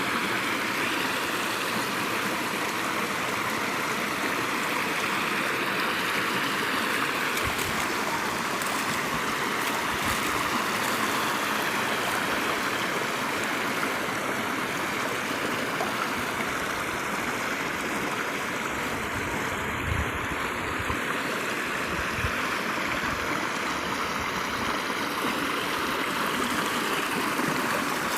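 Valley stream flowing steadily: an even, continuous rushing of running water.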